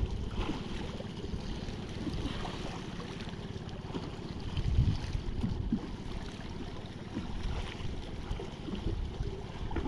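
Wind rumbling on the microphone over lapping sea water, with scattered small knocks and one louder low bump about five seconds in.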